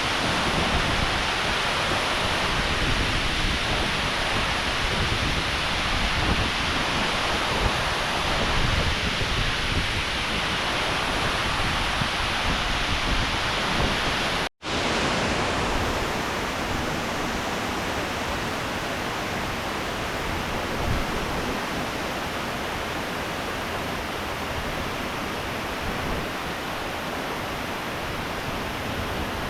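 Steady rush of water from a waterfall. It cuts out for an instant about halfway through, then continues a little quieter.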